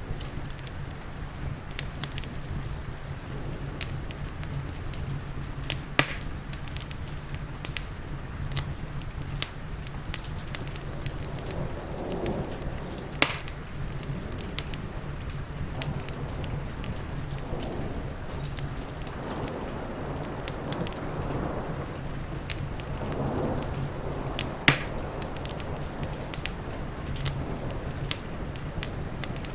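Wood fire crackling in a fireplace, with scattered small pops and three sharp loud pops, about 6, 13 and 25 seconds in. Under it runs a steady hiss of heavy rain.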